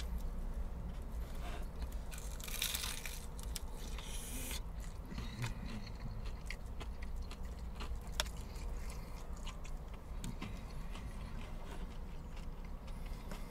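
A person biting and chewing crispy fried chicken, the breading crunching in two noisy bursts a few seconds in, with small wet clicks throughout. A steady low hum runs underneath.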